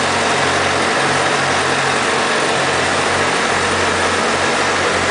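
Honda CBR1000RR's inline four-cylinder engine idling steadily through its stock exhaust.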